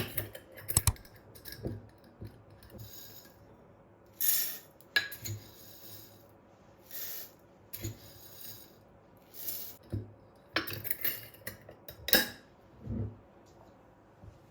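Kitchen dishes and cutlery being handled: an irregular string of sharp clinks and brief scraping sounds, the loudest clinks near the start and about twelve seconds in.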